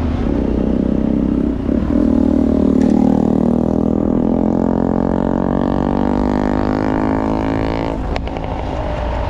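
A motor vehicle's engine running as a steady low drone, its pitch falling slowly before it stops abruptly about eight seconds in.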